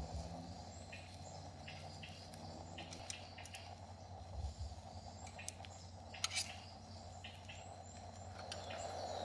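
Quiet forest ambience with scattered short bird chirps over a faint steady hiss, and a few brief clicks about halfway through.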